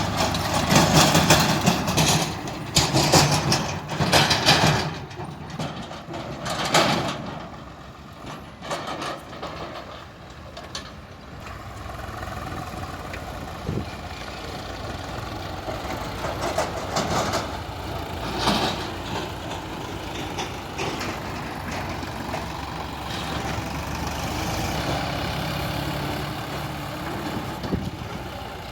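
Tractor diesel engine running, with several loud, rough bursts of noise in the first seven seconds, then a steadier, quieter run to the end.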